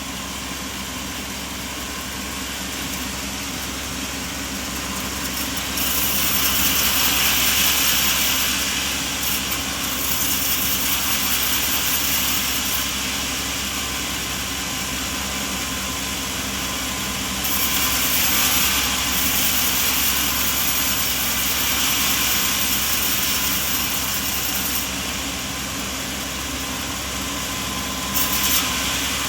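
Engine running steadily. Louder stretches of high hiss come in about six seconds in, again from about seventeen to twenty-five seconds, and near the end.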